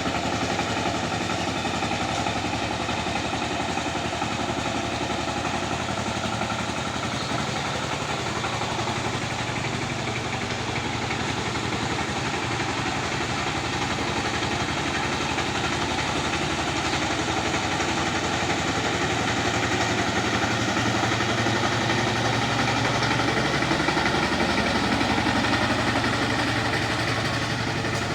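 Tractor engine running steadily as it works the land, growing a little louder in the second half.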